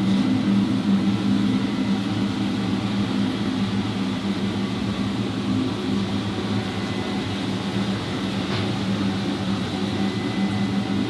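Steady machine hum with a low, even drone that does not change.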